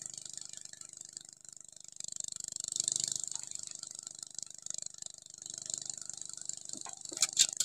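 Steady high-pitched hiss of outdoor background noise, swelling about three seconds in, with a few sharp clicks near the end.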